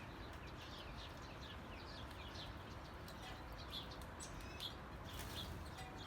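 Small songbirds chirping, many short quick downward-slurred chirps one after another, over a faint steady outdoor background hum.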